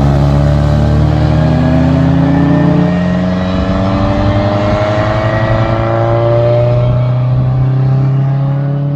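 Car engine accelerating hard past the roadside, running steadily at first and then rising in pitch for several seconds as it pulls through the revs.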